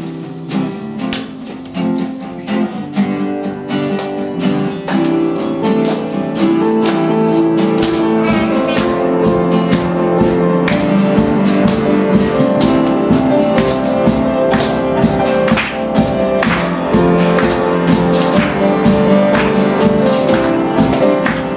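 Live worship band playing an instrumental song intro, led by strummed guitar with a steady rhythm. About seven seconds in, bass and fuller band parts join and the music grows louder.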